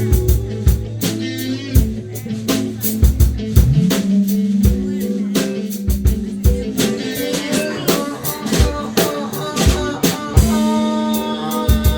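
Band jamming an instrumental passage: a drum kit keeps a busy beat with snare and bass-drum hits under a held bass line that slides up about four seconds in, with guitar playing above.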